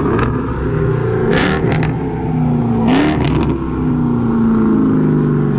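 Car engine revving hard during a burnout, its pitch climbing at the start and again about three seconds in, with a few short sharp bursts of noise.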